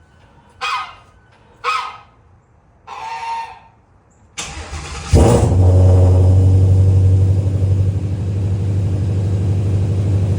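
A goose honks three times. About four seconds in, a Ford Mustang GT350's 5.2-litre flat-plane-crank V8 cranks, fires with a loud rev and settles into a steady idle.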